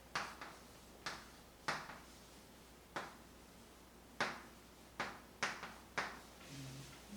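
A series of sharp, short clicks or taps, about ten of them at irregular intervals.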